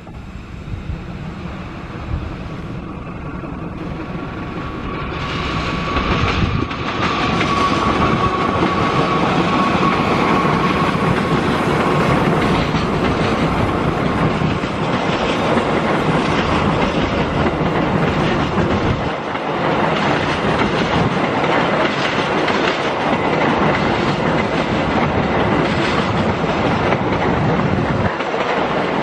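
Diesel-hauled passenger train running through a station without stopping: the locomotive and wheels grow louder over the first several seconds as it approaches, then the coaches rumble and clatter steadily past on the rails.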